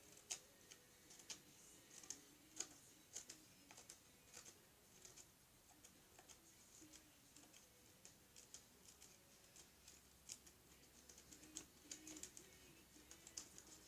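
Scissors making small snips into folded paper, heard as a string of faint, irregular clicks.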